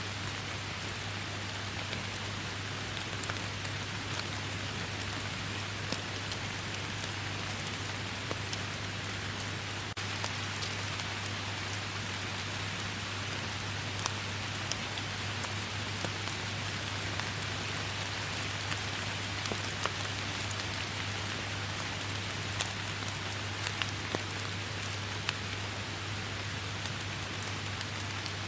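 Steady rain falling in a forest: an even hiss with many single drops ticking sharply through it, over a steady low hum.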